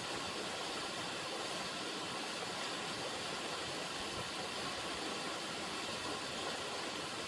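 River water running in a steady, even rush with no breaks or distinct splashes.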